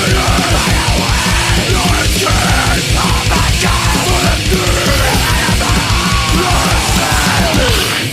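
Crust punk recording: loud, fast band music with distorted guitars, a fast drum beat and shouted vocals. The song stops abruptly at the very end.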